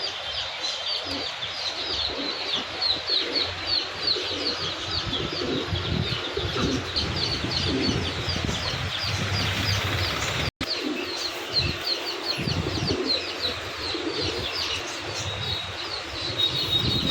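Many caged birds chirping together, short high calls several times a second without let-up, with pigeons cooing lower underneath. The sound cuts out for an instant about ten and a half seconds in.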